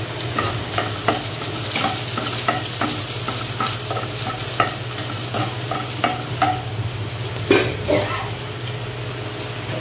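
Cumin seeds, sliced onion and green chillies sizzling in hot oil in a metal pot, with a spatula stirring and scraping against the pan in short strokes; the loudest scrape comes about seven and a half seconds in. A steady low hum runs underneath.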